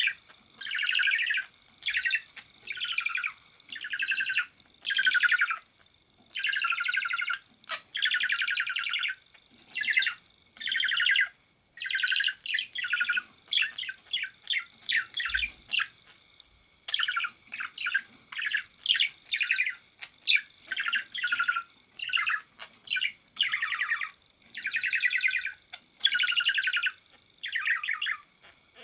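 A green pet parrot calling over and over: a long series of short, harsh, high chirps and squawks, roughly one a second, with brief pauses between runs.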